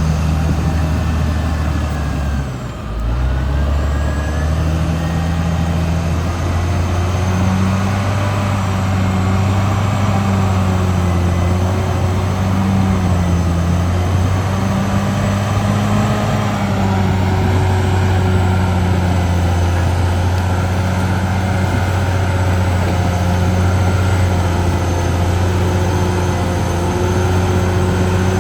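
Caterpillar D6R XL bulldozer's diesel engine running steadily under working load, its pitch wavering slightly; about three seconds in the engine note dips briefly and then picks back up.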